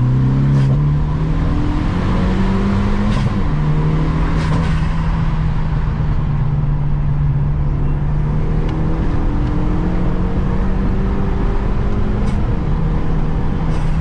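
Car engine pulling up in pitch, then dropping sharply about three seconds in as if at a gear change, and afterwards running at a nearly steady pitch under a held throttle. A few faint clicks show over it.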